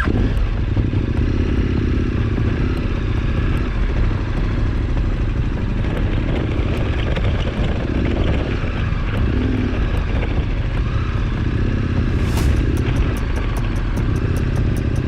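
KTM 1290 Super Adventure R's V-twin engine running steadily as the motorcycle is ridden along a rough off-road trail, with a brief hiss about twelve seconds in.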